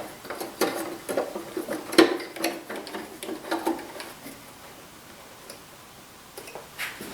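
Irregular light clicks and taps of metal parts and tools being handled on a DeWalt 735 planer during reassembly. They die down after about four seconds, and a few more ticks come near the end.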